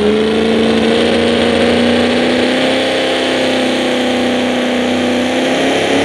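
Super modified four-wheel-drive pulling truck's engine running hard at high revs under load while pulling the sled, its pitch climbing slowly and steadily.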